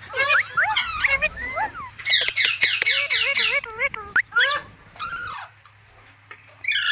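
Ringneck parrots (rose-ringed parakeets) calling, a busy run of quick chirps, rising and falling squawks and rapid repeated notes that stops about five seconds in.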